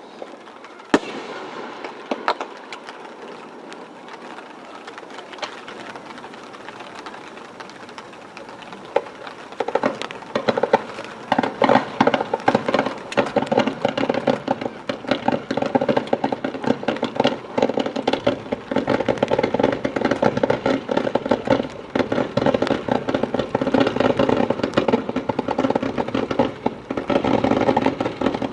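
Aerial fireworks display: a sharp bang about a second in and scattered pops. About ten seconds in, a loud, dense stretch of rapid crackling and bursts begins.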